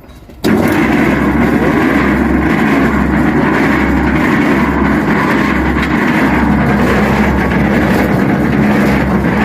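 Electric heavy-duty one-bagger concrete mixer switching on about half a second in, then running steadily.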